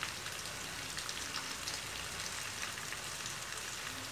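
Lapsi (hog plum) peels frying in oil in a wok: a steady sizzle full of fine crackles.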